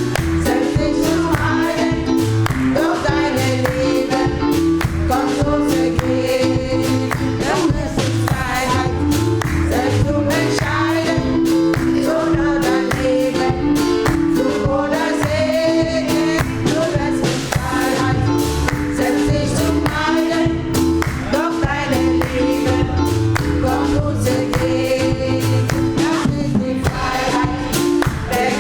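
Gospel choir singing live with band accompaniment: voices with vibrato over sustained chords and a steady beat.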